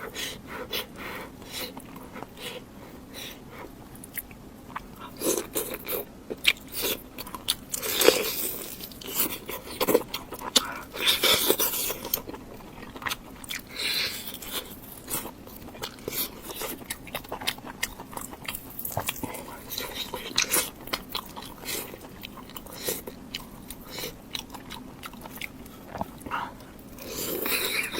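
Close-miked eating sounds: a person biting, crunching and chewing food, with many short crisp clicks and a few louder crunchy stretches in the middle.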